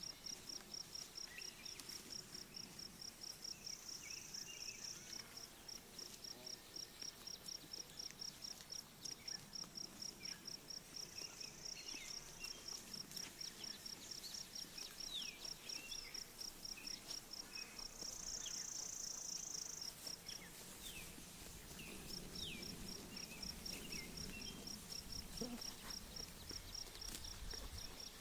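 Open pasture ambience: a high chirp pulsing steadily about five times a second, which stops briefly a little past twenty seconds and then resumes. Scattered small bird chirps sound over it, and a low rustling comes in near the end.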